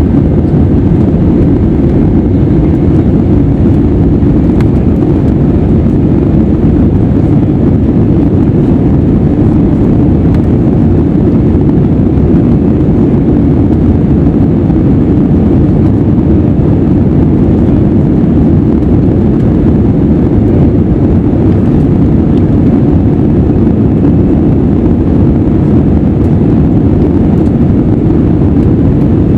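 Airbus A320 jet noise: a steady, loud low rumble of engines and rushing air that does not change.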